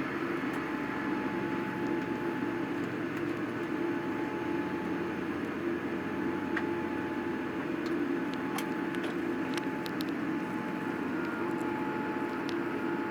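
Steady cabin noise inside a Boeing 787-9 after landing: an even hum from the GE GEnx engines at idle and the cabin air, with a faint steady whine. A few faint clicks come about two-thirds of the way through.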